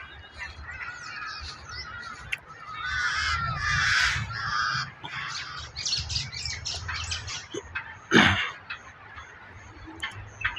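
Several birds calling, their calls overlapping, loudest about three to five seconds in. One short, loud sound stands out about eight seconds in.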